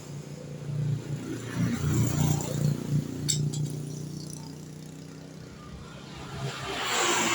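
Vehicle engine running with a steady low hum, louder and uneven for the first few seconds, with a brief click about three seconds in and a swelling rush of noise near the end.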